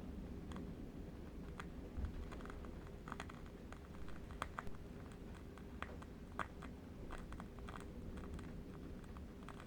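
Candle wick crackling: soft, irregular clicks, a few each second, over a low steady wind rumble.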